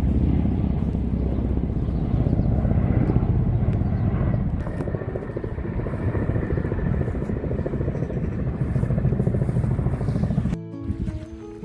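A loud, low, fluttering rumble with no clear pitch. About a second before the end it cuts off, and background music starts.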